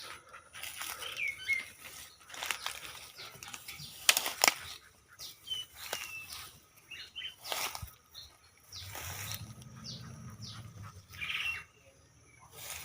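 A bird flapping and fluttering its wings with rustling and clicking movements, the loudest about four seconds in, and a few short high chirps.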